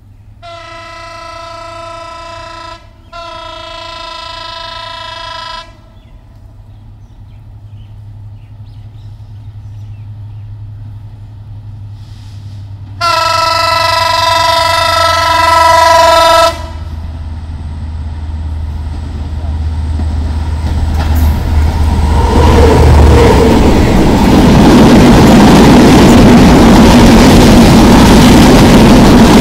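Diesel locomotive's horn sounding two steady blasts of about two and a half seconds each, then a third, louder blast about 13 seconds in as the train approaches. The engine's low rumble then builds, and from about 22 seconds in the locomotive and passenger coaches pass close by, with loud, steady wheel-on-rail noise.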